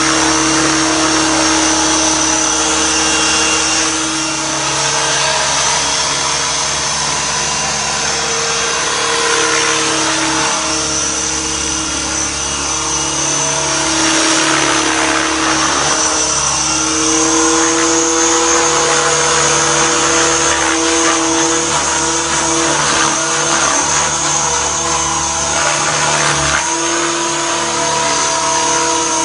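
Radio-controlled helicopter in flight: a loud, steady whine from its motor and rotors, shifting a little in pitch now and then as the throttle and blade pitch change.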